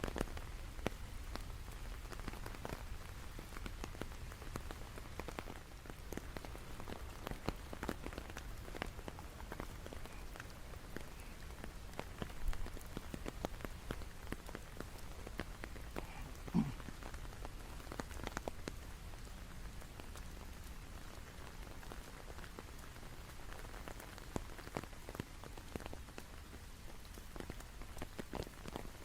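Steady rain falling, heard as a dense spread of separate drop hits over a low, steady rumble. A brief falling tone sounds once about halfway through.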